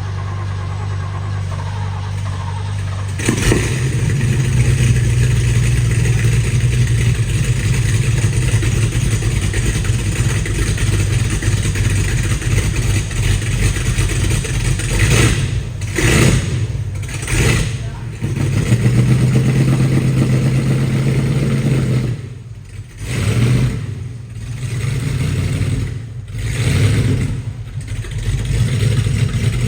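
De Tomaso Pantera's Ford 5.8-litre V8 running, stepping up louder about three seconds in. In the second half it is revved in several short throttle blips.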